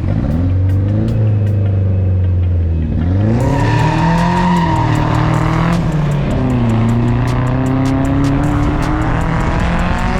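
Drift cars at full throttle: engine note climbing sharply about three seconds in, then falling and rising again, with tire squeal and skidding hiss joining as the cars slide.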